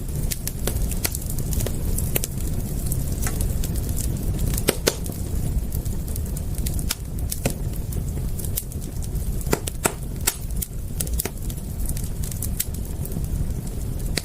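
Wood fire crackling: sharp, irregular pops and snaps over a steady low rumble, with a few louder pops about five, ten and eleven seconds in.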